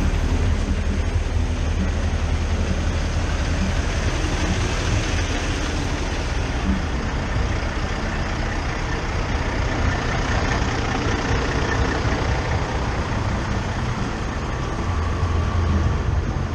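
Semi-truck engine running at idle: a steady low rumble under an even hiss, with no change through the stretch.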